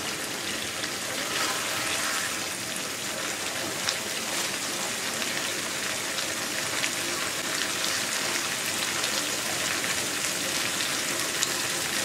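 Egg korma gravy sizzling in oil in a black pan, a steady sizzle full of fine crackles and pops.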